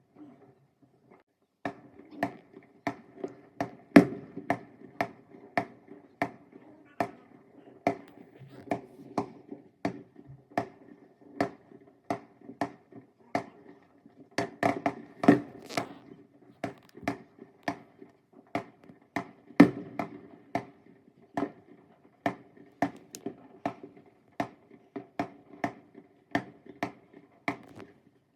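Fireworks going off in a long barrage: sharp bangs and pops, about two to three a second, starting about two seconds in, with the loudest reports about four, fifteen and twenty seconds in.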